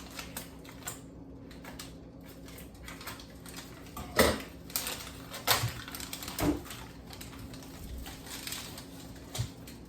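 Scattered knocks and clicks of kitchen handling, with a few louder knocks in the middle, over a steady low hum.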